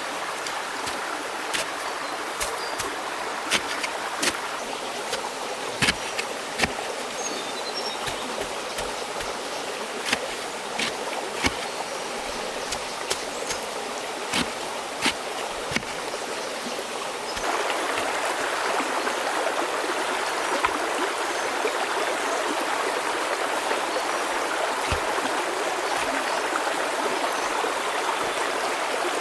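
Running stream water, a steady rushing, with frequent irregular sharp clicks and knocks over it. About seventeen seconds in the clicks stop and the water sound jumps abruptly louder and fuller.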